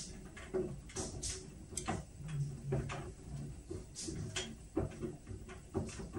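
Whirlpool washing machine partway through a Steam Refresh cycle: irregular light clicks and knocks over a steady low hum, with a brief low tone about two seconds in.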